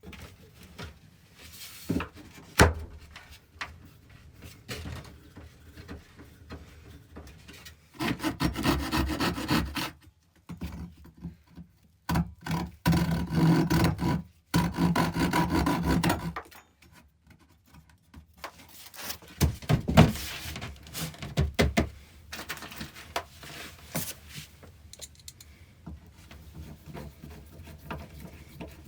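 Wood being worked by hand: long bouts of rasping, rubbing strokes like a hand saw or rasp through wood, with a few sharp knocks between them.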